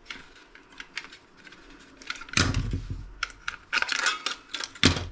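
Small plastic clicks and knocks from a remote control's casing being pried apart and handled, with louder knocks about two and a half seconds in and again near the end.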